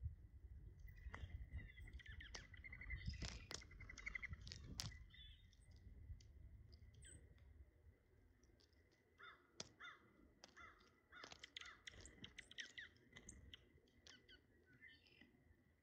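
Faint sounds of birds at food: scattered pecks and taps mixed with short harsh calls, in two busy bouts with a lull between them.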